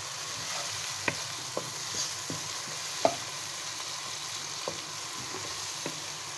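Onions, tomatoes and ground spices sizzling in oil in a non-stick wok while a wooden spatula stirs them, with light knocks and scrapes of the spatula on the pan about once a second, the loudest about three seconds in. The masala is being fried (bhunao stage).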